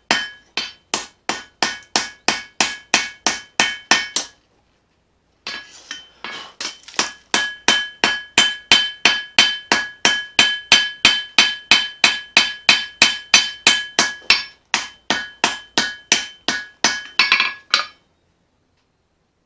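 Hand hammer striking leaf-spring steel on an anvil while forging a knife blade: about three blows a second, each with a clear ringing tone from the anvil. The hammering pauses briefly about four seconds in, resumes, and stops near the end.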